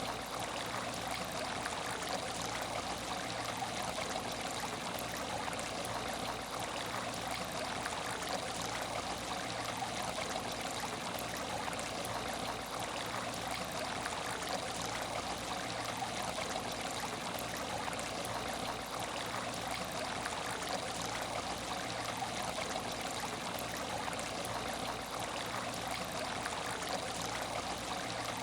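Water in an empty aquarium tank, running and trickling steadily without a break.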